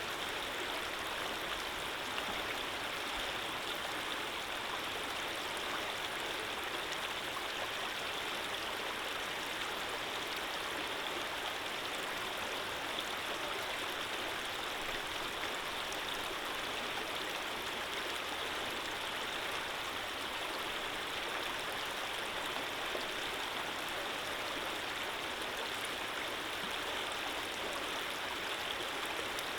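Running water, a steady even flow like a stream, with no change in level.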